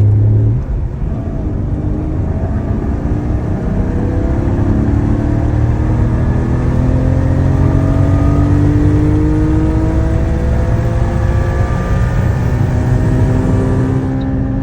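Car engine under hard, sustained acceleration: its note climbs slowly and steadily in pitch for about fourteen seconds, then falls away near the end as the throttle comes off.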